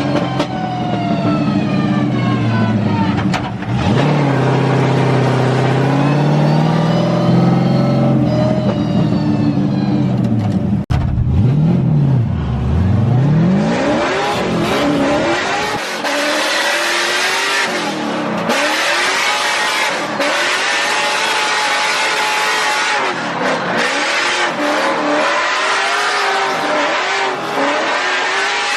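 Drift car engines revving hard, the pitch climbing and dropping with throttle and shifts. From about halfway, tyres screeching in a slide join in, with the engine bouncing up and down in pitch.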